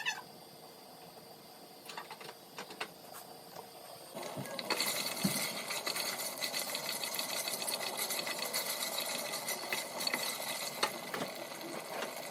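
A small motorised appliance starts about four seconds in and runs steadily with a fast rattle. Before it there are only a few faint clicks.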